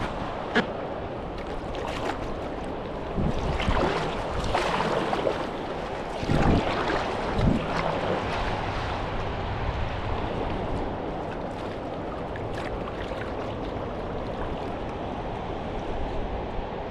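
Moving river water rushing and splashing around a whitewater kayak, with wind on the microphone and a few louder splashes between about three and eight seconds in.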